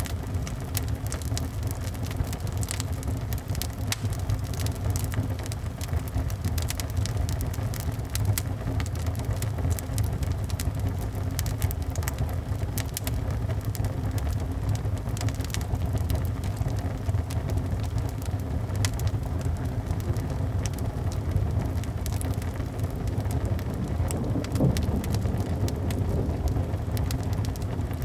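Wood fire crackling, with many small sharp pops scattered through it, over a steady low rumble and the even hiss of rain.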